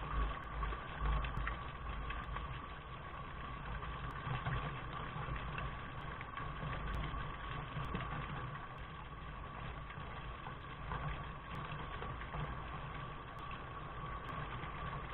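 Steady rain noise with a deep low rumble and a faint steady tone running through it.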